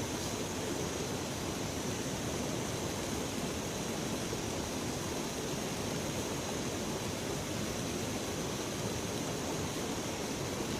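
River water rushing in a steady, unbroken noise.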